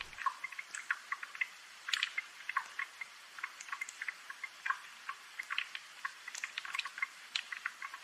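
Light rain: a soft hiss with many irregular, sharp drips and ticks of falling drops, several a second.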